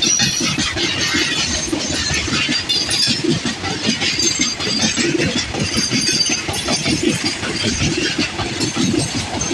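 Freight train hauled by WAG-9 electric locomotives passing close by: a continuous loud rumble of steel wheels on rail with rapid clatter, and brief high metallic squeals now and then.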